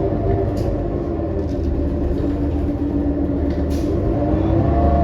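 Inside a 2018 New Flyer XD40 diesel transit bus under way: the engine and drivetrain run with a steady drone of several tones over a low rumble. A couple of brief rattles come through.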